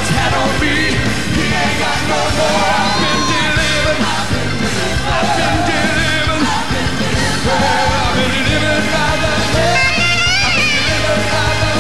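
Loud live gospel praise music from a church band, with voices singing and calling out over it.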